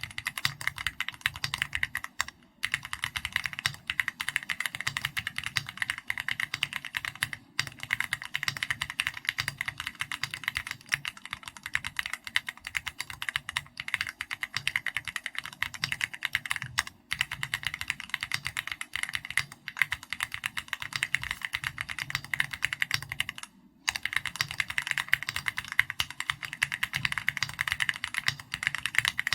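Continuous fast typing on a custom mechanical keyboard with Keychron Red linear switches and XVX keycaps in an SPM AL66B housing, a dense stream of key clacks with a few short pauses, the longest near the 24-second mark.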